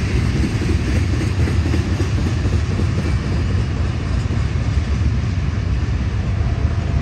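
Freight train rolling past with a steady low rumble of wheels on rail.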